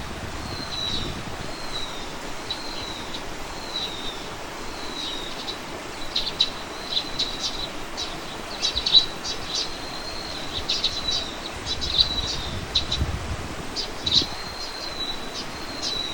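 Wild birdsong: one bird repeats a short, slightly falling whistled note about once a second. About six seconds in, quick bursts of sharp chirps from other birds join it.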